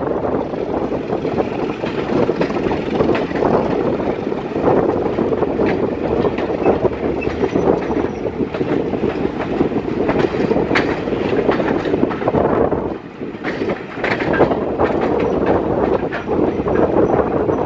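British Rail Mk1 passenger coach running along the track, with a steady rolling rumble and scattered clicks from the wheels over the rail. The noise dips briefly about thirteen seconds in.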